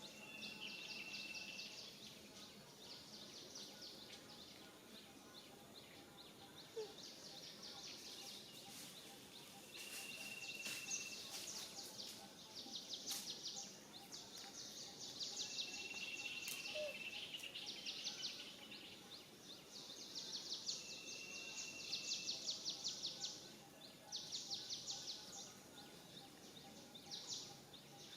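Outdoor ambience of high wildlife calls: bouts of rapid, high buzzy pulsing lasting one to three seconds, with a short steady high whistled note that recurs about every five or six seconds.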